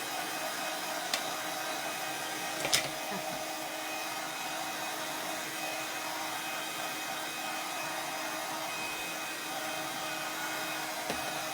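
Handheld hot-air dryer running steadily, blowing on freshly applied paint and glaze to dry it, with two sharp clicks about a second and nearly three seconds in.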